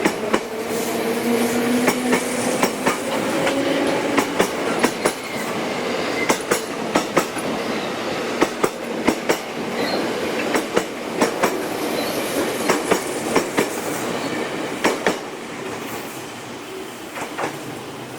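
Wheels of a locomotive-hauled passenger coach clacking over rail joints in quick pairs of clicks over a steady rolling rumble. A faint tone, rising slightly, sounds for the first few seconds. The clicks thin out and the rumble quietens after about fifteen seconds.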